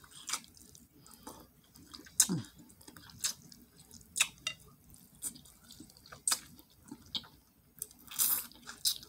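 A person chewing food close to the microphone, with sharp wet mouth smacks about once a second.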